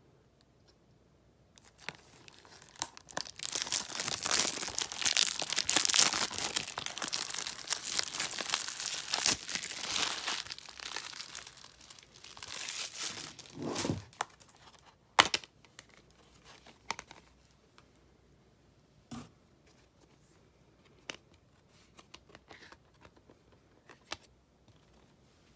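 Packaging being torn open and crinkled by hand, a dense crackling that runs for about twelve seconds, then a few scattered clicks and taps as the item is handled.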